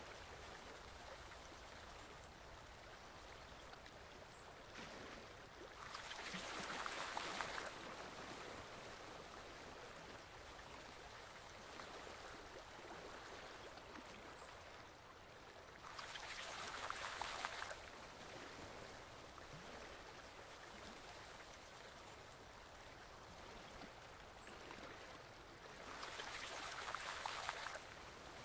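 Small stream flowing steadily, with a louder rush of water lasting about two seconds that comes back roughly every ten seconds, three times.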